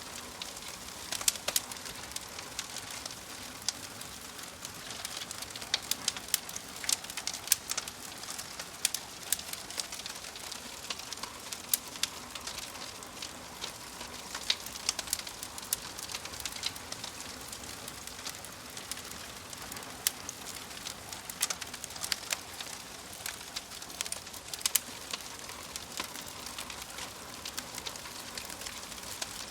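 Wood fire burning in a fireplace: logs crackling with irregular sharp pops over a steady soft hiss.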